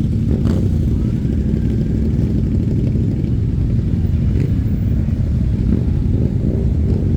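Motorcycle engines running steadily, a dense low engine rumble from several bikes together.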